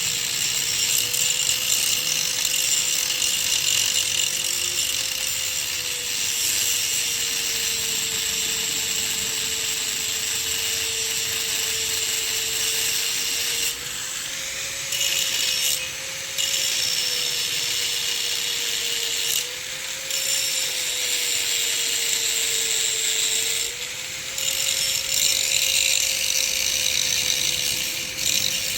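Angle grinder running steadily and cutting, its motor hum holding throughout under a loud, high grinding hiss. The hiss drops out briefly about four times in the second half as the disc comes off the work, while the motor keeps running.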